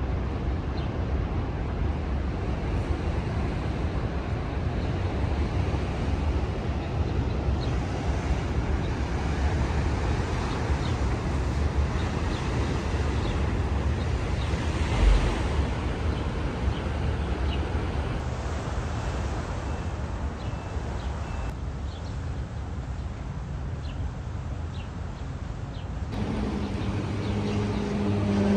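Wind buffeting the microphone over outdoor city ambience, a steady low rumbling rush. Near the end a low droning tone comes in and grows louder.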